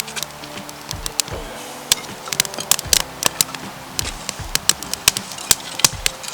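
Wood campfire crackling: sharp, irregular pops and snaps, several a second, over faint steady tones.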